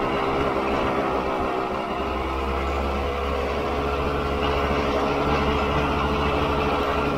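Honda CRM250's two-stroke single-cylinder engine running at a fairly steady pace as the dirt bike is ridden along a dirt trail, heard from a camera mounted on the bike. The engine eases off slightly about two seconds in.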